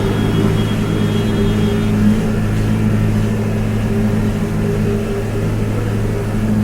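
Toy construction vehicle running with a steady, low engine-like hum that holds an even pitch.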